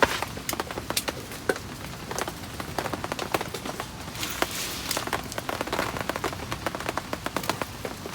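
Heavy rain, a steady hiss with many sharp, irregular hits of drops striking close by.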